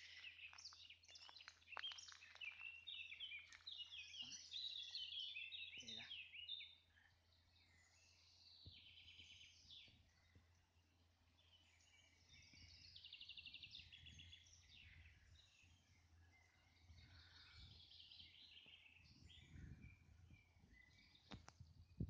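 Small birds singing, several overlapping songs of quick chirps and trills, busiest and loudest in the first six seconds or so, then fainter, sparser trilled phrases.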